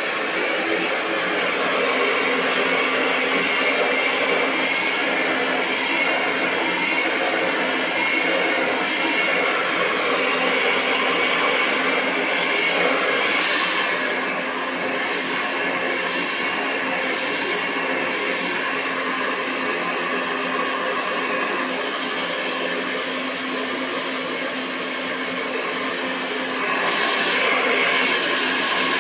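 Hair dryer running continuously, a steady rush of airflow over a motor hum. The rush softens slightly about halfway through and strengthens again near the end.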